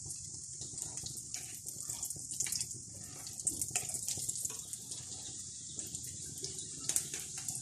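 Breadcrumb-coated potato-and-pea kebabs shallow-frying in a little oil in a frying pan on a medium-low flame: a steady sizzle with scattered crackles.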